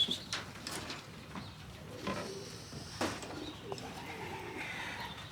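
Pigeons cooing softly, with a few light clicks and knocks.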